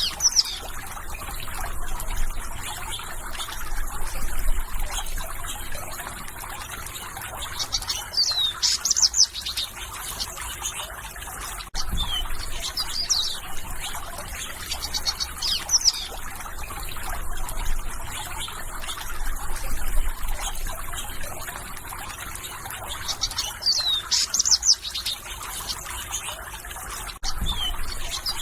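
Songbird singing a short phrase of quick falling whistled notes that it repeats every few seconds, over a steady background hiss. A brief click sounds about twelve seconds in and again near the end.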